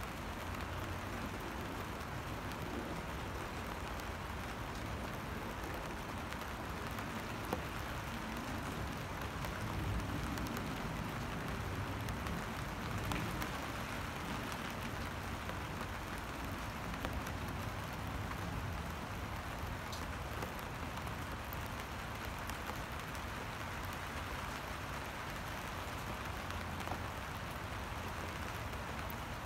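Steady rain falling into a puddle and onto wet pavement: an even hiss of drops with an occasional sharper drip.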